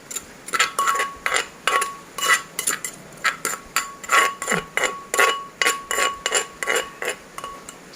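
Pestle pounding and tossing a spicy papaya salad in a mortar, steady knocks about three a second with a light ringing note.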